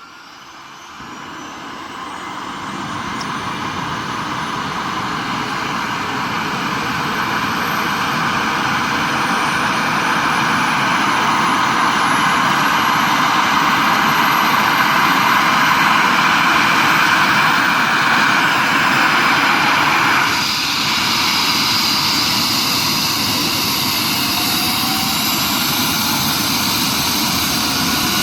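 Airbus EC135 helicopter's twin turboshaft engines starting up: a rising turbine whine that grows louder over roughly the first ten seconds, then runs steadily, with a sudden change in tone about twenty seconds in.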